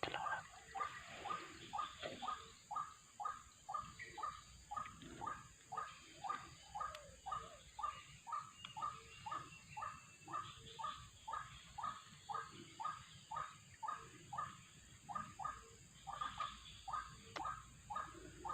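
White-breasted waterhen calling: a steady, unbroken run of short repeated notes, about two a second.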